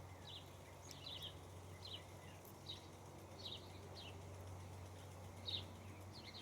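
Faint, short, high bird chirps repeating about once a second, over a steady low hum.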